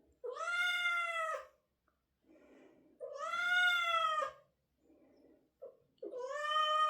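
Domestic cat yowling while straining to poop on a toilet, a cry of constipation. It gives three long drawn-out yowls about three seconds apart, each rising slightly and then dropping at the end.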